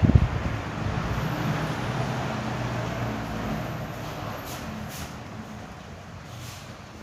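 Arge Twister 60 cm wall fan running, its airflow rushing against the microphone over a low hum, with a few buffeting thumps at the start. The sound fades steadily over several seconds.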